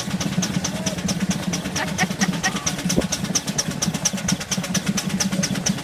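Miniature Ruston Proctor steam traction engine running along the road, with a steady, even exhaust beat of about five or six strokes a second over a continuous low mechanical hum.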